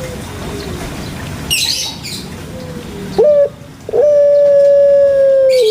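Puter pelung dove (Barbary dove, Streptopelia risoria) calling: a short coo about three seconds in, then one long drawn-out coo that drops a step in pitch near the end.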